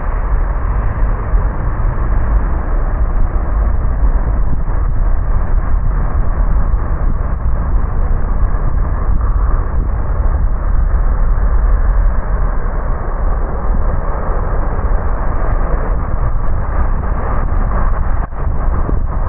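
Car driving on a wet road in the rain: a steady low rumble of road and tyre noise.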